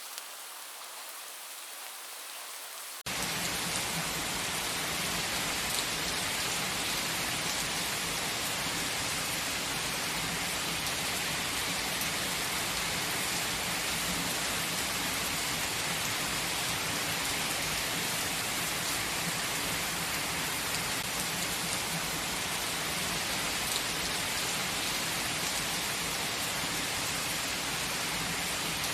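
Steady heavy rain pouring down. About three seconds in it cuts abruptly to a louder, fuller downpour with a deeper rumble.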